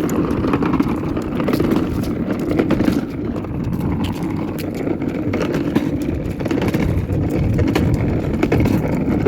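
A child's ride-on toy truck rolling along pavement: a steady, rough rumble of its wheels and drive with many small clicks.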